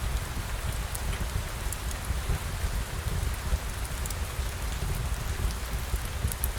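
Steady rain falling, heard as an even hiss over a low rumble, with many small sharp ticks scattered through it.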